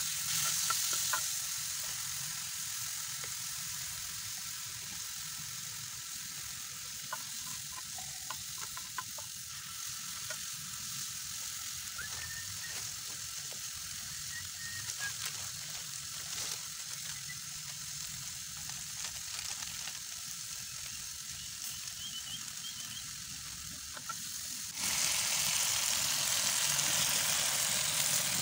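Chili sambal sizzling as it fries in a pan over a wood fire, stirred with a wooden spatula, with scattered small crackles and ticks. Near the end the sound switches abruptly to a louder, steady rushing noise.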